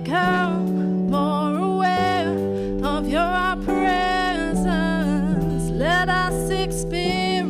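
Live worship song: a sung melody over strummed acoustic guitar with held chords and a steady bass line beneath.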